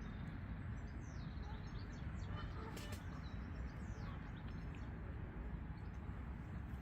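Several faint, short, falling bird chirps over a steady low outdoor rumble, with one sharp click about three seconds in.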